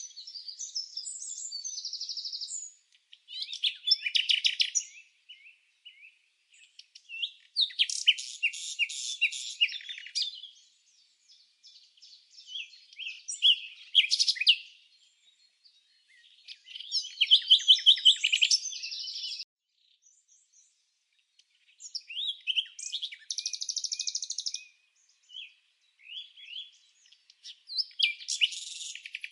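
Birds chirping and trilling in bouts of a few seconds, with short pauses between: quick repeated notes and fast trills, all high-pitched.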